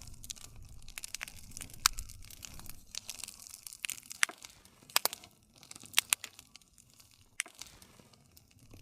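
Campfire crackling: irregular sharp pops and snaps of burning wood over a low rumble of flame, with the rumble dying down about halfway through.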